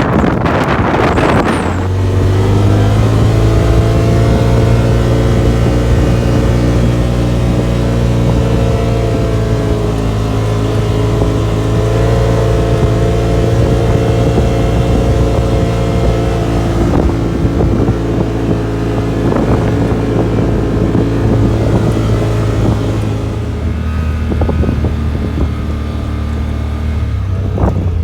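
Side-by-side UTV engine running at a steady speed, its pitch nearly level, after a couple of seconds of wind noise on the microphone.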